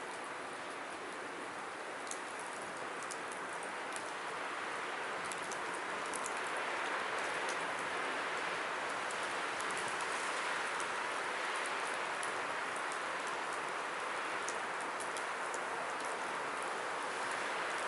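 Firewood burning: a steady hiss with many small, sharp crackles and pops scattered through it, growing a little louder a few seconds in.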